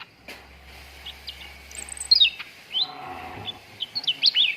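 Cucak ranting bird calling: a run of short, quick chirps that sweep up and down in pitch, loudest about two seconds in and again near the end.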